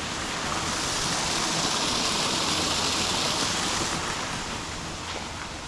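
Running water rushing steadily, a little louder in the middle and easing toward the end.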